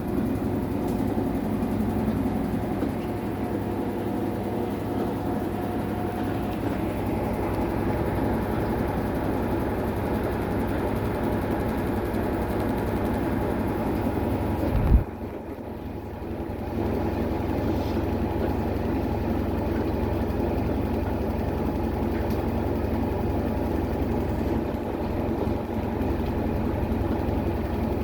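Maytag MVWX655DW1 top-load washing machine running steadily through its tub clean cycle, a constant motor hum. About halfway there is a single knock, the hum drops away for a second or two, then it picks up again and runs on.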